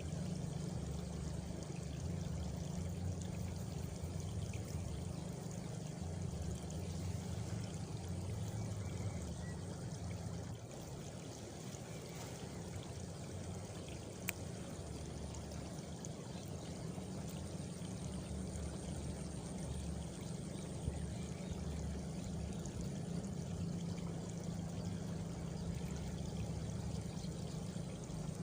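Steady countryside ambience of a frog and cricket chorus, heard as an even, rushing water-like hiss over a pulsing low drone. A single sharp click comes about fourteen seconds in.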